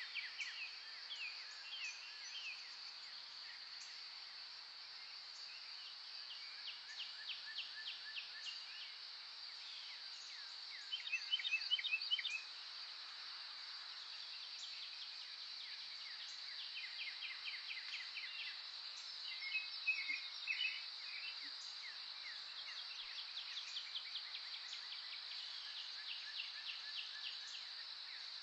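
Songbirds singing in rapid trills of quick repeated notes over a steady high drone of insects, with louder bursts of chattering song about eleven seconds in and again around twenty seconds.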